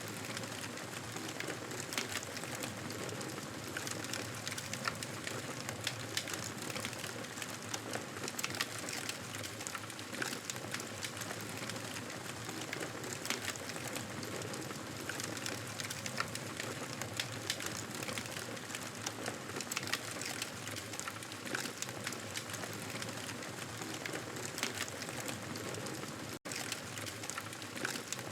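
Wood fire crackling: a steady hiss dotted with many small sharp pops and snaps, which cuts out for an instant near the end.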